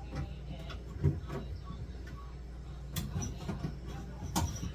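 A few light knocks and clicks of things being handled during fridge cleaning, about 1, 3 and 4.5 seconds in, over a steady low hum.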